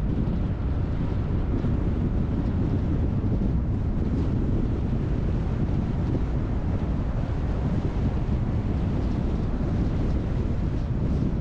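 Car driving along a road: a steady low rumble of tyre, engine and wind noise.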